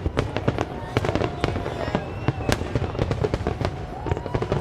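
Fireworks going off in quick succession: a dense run of sharp bangs and crackles, with music playing underneath.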